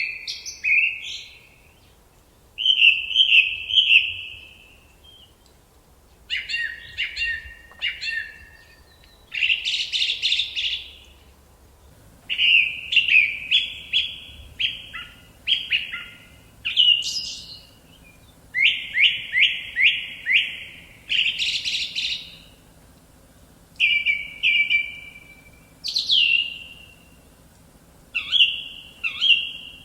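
A songbird singing a run of short, varied phrases, each a second or two long with trills and rapidly repeated notes, separated by brief pauses.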